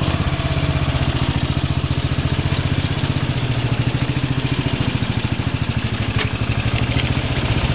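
Riding mower's 14.5 hp Briggs & Stratton overhead-valve single-cylinder engine running steadily with an even, rapid firing pulse.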